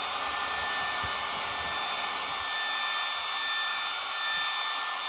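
Remington HC6550 cordless vacuum hair clippers running steadily, the whir of the motor and built-in vacuum fan with a thin steady high tone.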